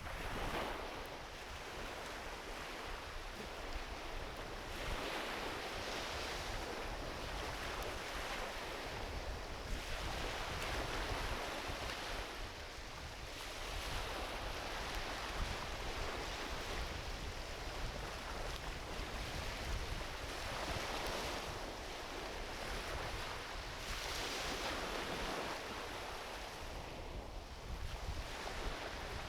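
Small ocean waves washing onto a beach, the surf swelling and falling back every few seconds, with a low rumble of wind on the microphone.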